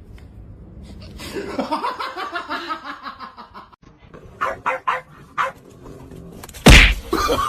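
A dog vocalizing in a drawn-out, wavering run of calls, followed by a few short knocks and one loud thump near the end.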